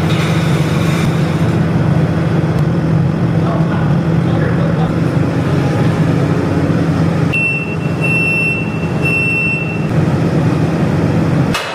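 Truck engine running steadily under a continuous rumble. Three short high-pitched beeps come about three quarters of the way through.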